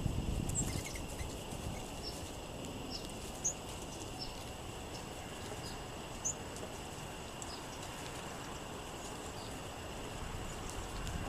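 Small songbirds giving short, high chip calls every second or so, over wind rumbling on the microphone that is strongest in the first second.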